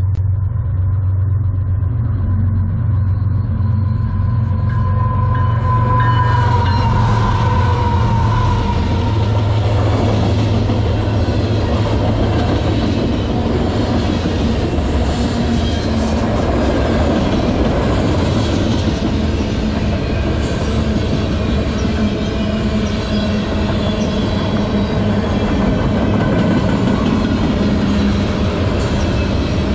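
A freight train led by two GE ES44AC diesel locomotives passing close by: the locomotives' engines drone and whine as they approach and go by in the first ten seconds or so, then the freight cars roll past with a steady rumble and clatter of wheels on rail.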